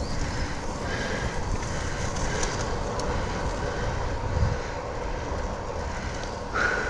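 Steady rushing noise of a bicycle being ridden in the rain: wind on the bike-mounted phone's microphone and the tyres rolling over the wet trail.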